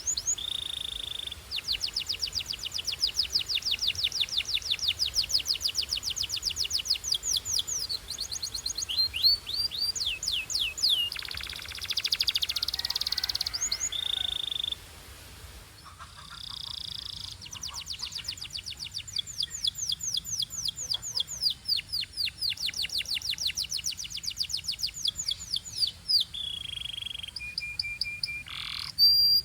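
Domestic canary singing: fast rolling trills of rapid repeated notes, about seven a second, broken by short steady whistled notes. A harsher, buzzy stretch comes near the middle, followed by a brief pause before the trills resume.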